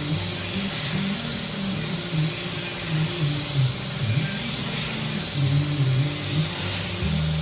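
Air-powered paint spray gun hissing steadily, over a low hum that shifts in pitch.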